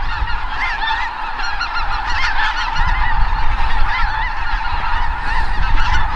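A large flock of snow geese calling: a dense, continuous chorus of many overlapping high-pitched yelps.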